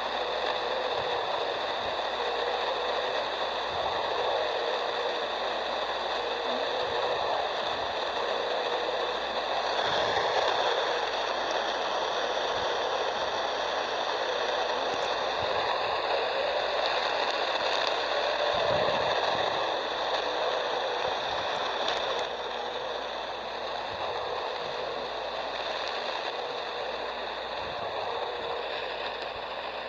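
AM radio receiver tuned to 1340 kHz, giving a steady hiss of static with several faint steady tones laid over it: the strange noise heard on that frequency.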